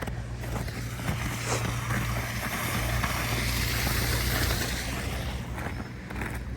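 A vehicle passing on the road, its tyre noise swelling to a peak about three to four seconds in and then fading away.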